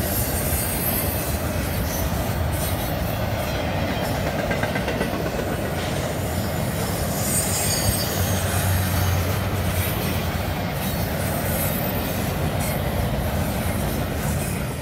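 Double-stack intermodal freight cars rolling past on the rails: a steady rumble of wheels on track with intermittent high-pitched wheel squeal. The end of the train passes near the end and the sound begins to fade.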